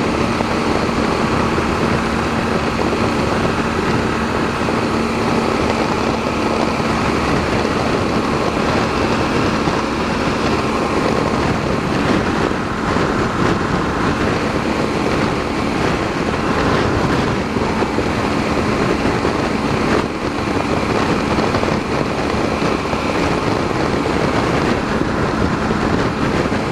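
BMW motorcycle cruising at a steady road speed: an even rush of wind and road noise over a steady engine hum.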